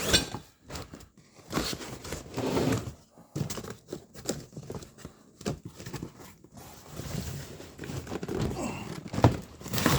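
Packaging being handled: plastic wrap and paper crinkling and rustling, with a few sharp knocks, the loudest right at the start and another about nine seconds in.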